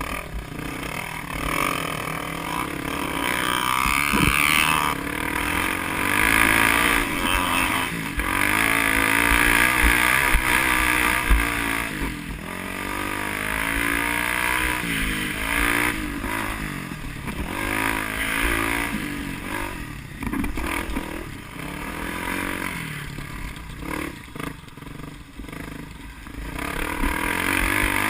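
A vehicle engine revving up and down repeatedly, its pitch rising and falling as it accelerates and eases off, under steady road and wind noise.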